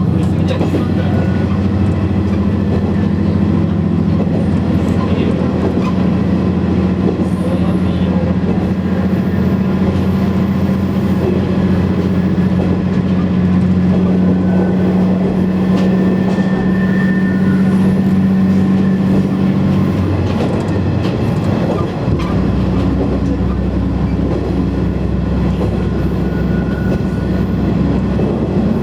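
KiHa 100 diesel railcar under way: a steady engine drone over wheel and rail running noise. About twenty seconds in the engine note changes and a lower hum takes over.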